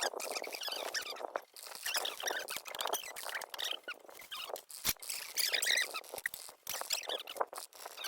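Wood fire crackling, with dense irregular snaps and pops and one sharper crack about five seconds in.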